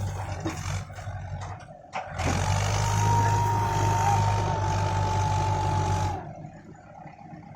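Farm machinery running: a tractor or harvester engine with a steady high whine over its low drone. It is loud and steady for about four seconds from two seconds in, then stops abruptly.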